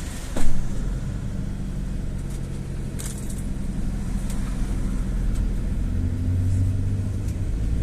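Inside a GAZ Gazelle City minibus on the move: steady engine and road rumble, the engine hum growing slightly louder and higher toward the end. There is a short loud knock about half a second in, and a faint rattle around three seconds in.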